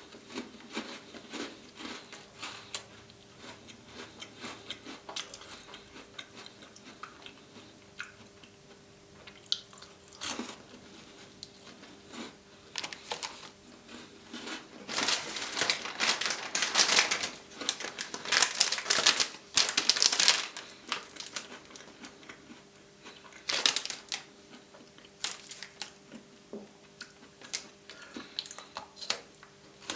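Close-up eating sounds: chocolate-coated Tim Tam biscuits being bitten and chewed, with crisp crunching that comes in a dense, loud stretch near the middle and in smaller bursts around it.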